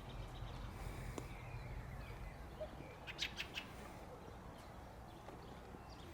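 A small bird chirps three or four times in quick succession about three seconds in, over a low steady outdoor rumble.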